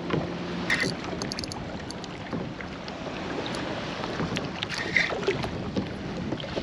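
Water moving around a kayak, with wind on the microphone. A low hum stops near the start, and a short run of light clicks follows about a second in.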